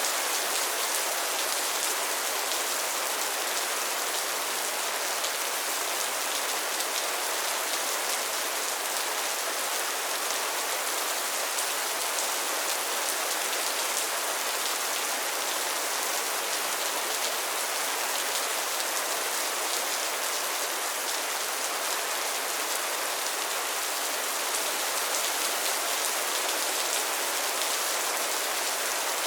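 Steady rain falling on a pond and its lily pads: a continuous, even hiss of many small drops pattering on water and leaves.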